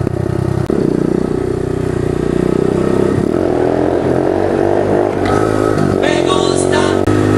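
Pit bike engine running under way, its pitch climbing and dropping several times as the rider accelerates. A brief hiss joins in from about five seconds in.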